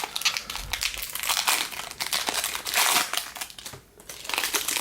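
Foil wrapper of a jumbo pack of 2018 Bowman baseball cards being torn open and crumpled by hand, crinkling in irregular bursts with a short pause near the end.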